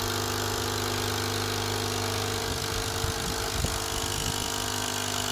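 Nespresso Essenza Mini coffee machine running with a steady mechanical hum as it brews the larger cup.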